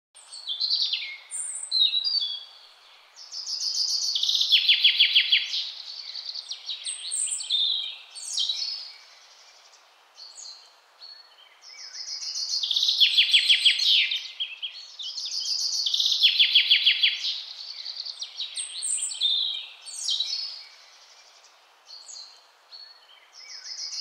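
A songbird singing: repeated phrases of high chirps that run into fast trills, each phrase a few seconds long, with short pauses between.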